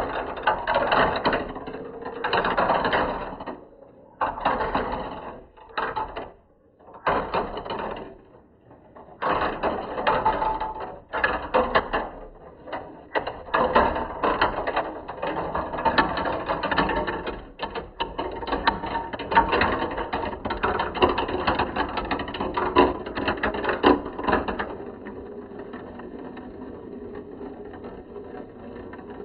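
Marbles rolling and clattering down a plastic marble-run slope track: a busy run of clicks and rattles broken by a few short gaps, then an even, quieter rolling for the last few seconds.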